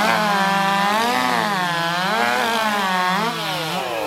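Two-stroke racing chainsaw at full throttle, cutting through a log in a timed race. Its engine pitch sags and recovers as the chain loads in the wood, then falls away near the end as the cut finishes and the throttle drops.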